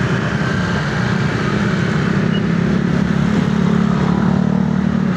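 Motorcycle engine running steadily while riding, a constant low drone over road noise.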